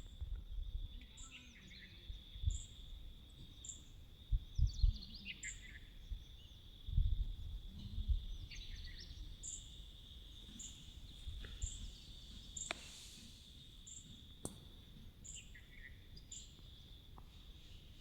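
Outdoor birds chirping and calling over a steady high-pitched insect drone, with short high chirps repeating every second or so and several falling calls. Low thumps and rumbles on the microphone come mostly in the first half.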